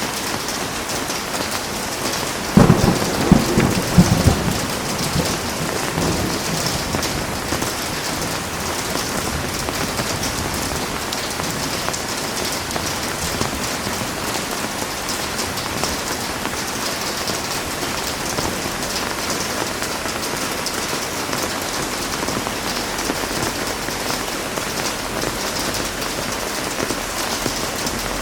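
Heavy rain falling steadily, with a loud clap and rumble of thunder about two and a half seconds in that fades over several seconds.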